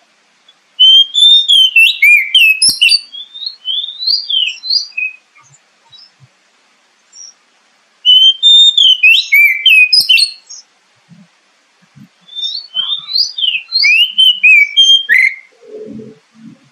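Oriental magpie-robin (kacer) singing in three bouts of a few seconds each, rapid varied whistles and chirps sliding up and down in pitch, with short pauses between.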